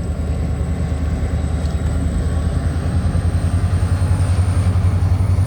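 Rear locomotive of a departing VIA passenger train, number 6427 (an F40PH-2 diesel), running with a steady, pulsing low rumble that grows louder.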